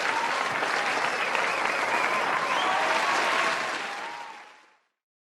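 Audience applauding, fading out near the end into silence.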